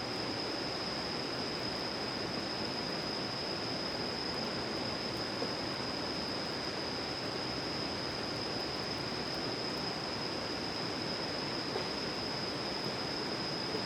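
Steady outdoor ambience: an even rushing noise like running water, with a constant high-pitched tone over it and a couple of faint ticks.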